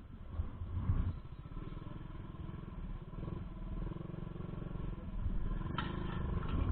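A motor vehicle's engine running steadily with a rapid low pulsing, growing a little louder and noisier near the end.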